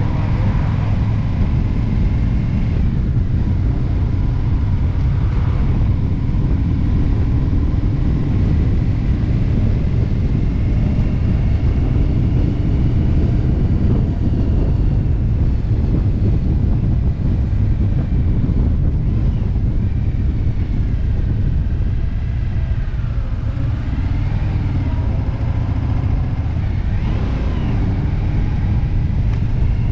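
Indian V-twin motorcycle engine running steadily at road speed, a continuous low rumble mixed with wind rushing over the microphone, its note shifting a little in pitch in the second half.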